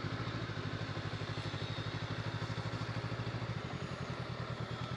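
Honda motorcycle engine idling at a standstill, with a steady, even rapid pulse.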